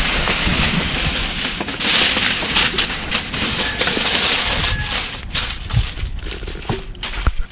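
Food frying in hot oil: a loud, steady sizzle full of crackles and pops. It swells about two seconds in and thins out toward the end.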